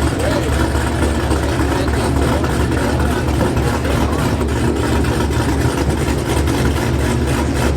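Loud car engine idling with a deep, steady low rumble.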